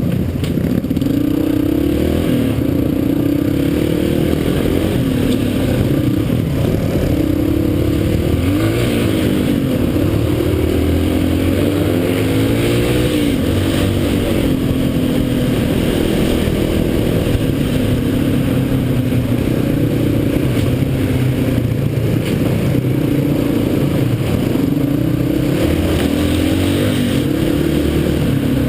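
Dirt bike engine running under way. Its pitch rises and falls repeatedly as the throttle is opened and closed and the bike shifts gears.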